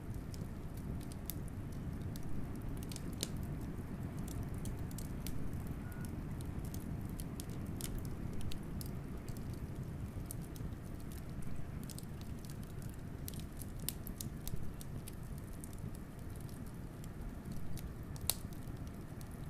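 Wood fire crackling, with irregular sharp pops and snaps, over a steady low rumble of wind.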